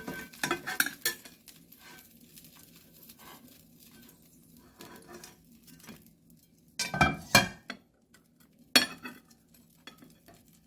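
Kitchen clatter of dishes and utensils: a quick run of clinks at the start, then two loud knocks about two-thirds of the way through and one more shortly after.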